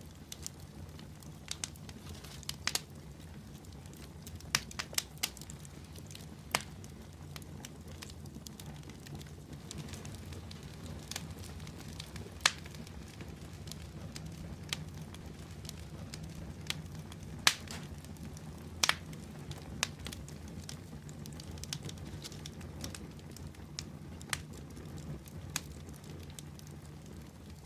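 Wood fire burning in a fireplace, with a steady low rumble of flames and irregular sharp crackles and pops, a few of them louder.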